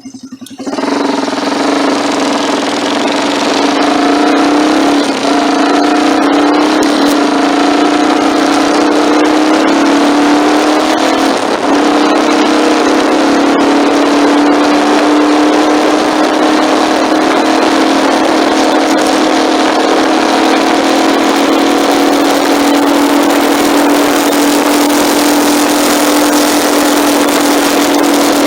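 Motorcycle under way, its engine holding a steady drone under heavy wind rush on the microphone of a phone mounted on the bike. The sound picks up sharply about half a second in as the bike pulls away, then holds nearly even, with the engine note creeping slowly higher.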